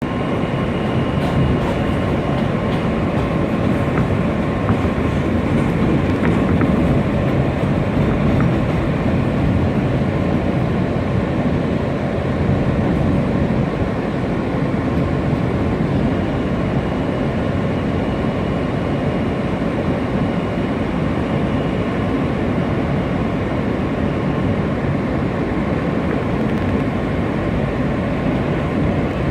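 New York subway train running, heard from on board: a steady rumble of wheels on track with a faint steady whine above it.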